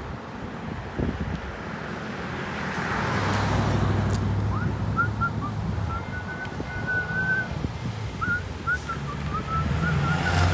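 Wind buffeting the microphone over road noise, with a motor vehicle's engine hum rising as it comes near. From about the middle there is a string of short, faint, high chirps.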